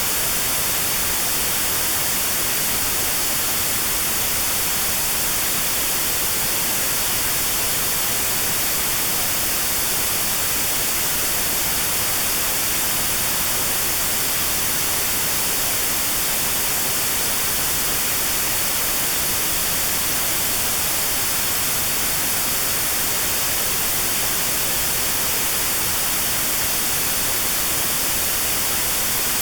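Steady white noise with a narrow notch cut out around 4 kHz: a constant hiss with a thin band missing, used as notched sound therapy for tinnitus at that pitch.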